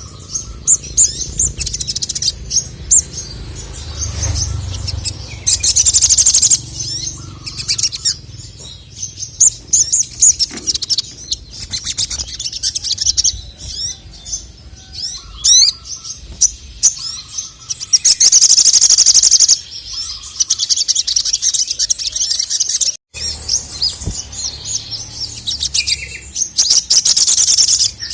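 Male sogon (sogok ontong), a sunbird, singing continuously in fast, high chirps and trills, with three loud, buzzing rapid trills: about six seconds in, around nineteen seconds, and near the end.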